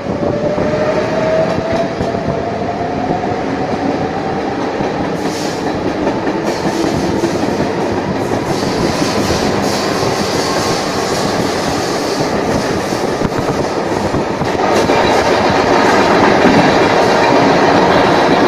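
Croatian Railways passenger train running, heard from on board: wheels clacking over the rails under a steady rumble, with a whine rising in pitch over the first several seconds as the train gathers speed. About fifteen seconds in the noise grows louder and more enclosed as the train runs through a tunnel.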